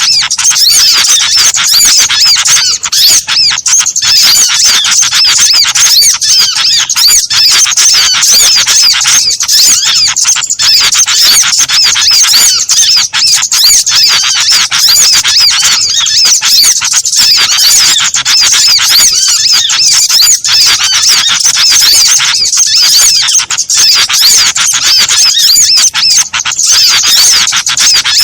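Bird-lure recording: a dense, unbroken chorus of many small birds chirping and twittering at a high pitch, with calls overlapping rapidly and no pauses.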